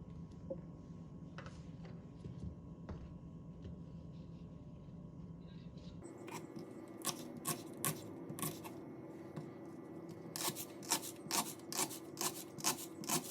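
Quiet room hum, then a series of sharp clicks or taps about twice a second, with a short pause in the middle.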